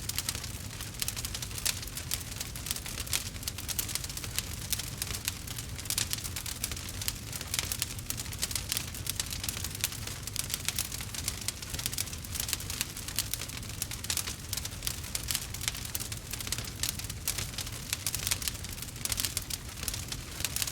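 Burning wood crackling: a dense, irregular stream of small crackles and pops over a low steady rumble.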